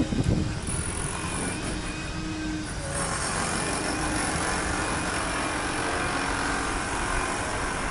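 An engine running steadily, a low rumble with a faint hum.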